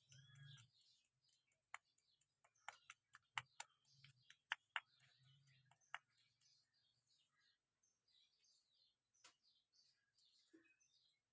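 Faint bird chirping with a quick run of small, sharp clicks and taps in the first half.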